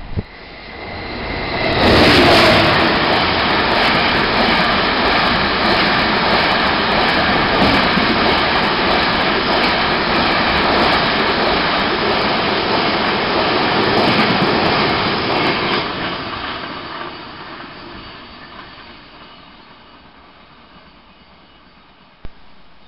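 A Class 66 diesel-hauled engineering train of loaded ballast wagons passing directly beneath. The noise swells suddenly about two seconds in as the train reaches the bridge, holds as the wagons rumble and clatter past, then fades away over the last several seconds as the train draws off.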